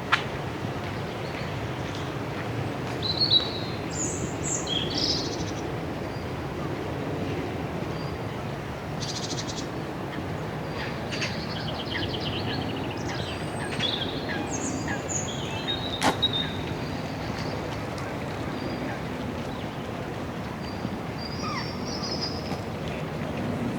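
Small birds chirping in short scattered calls over a steady low rumble of distant city traffic, with a couple of sharp clicks, one at the start and one about two-thirds of the way in.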